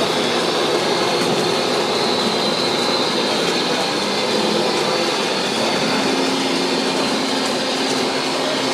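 Radio-controlled model trucks running, a steady mechanical noise with a high steady whine; a low steady hum joins about six seconds in.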